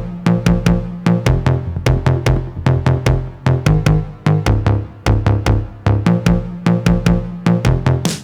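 Live techno-style electronic music from a drum machine and an analog synthesizer: fast, even percussive hits at about six a second over a pulsing, stepping bass line.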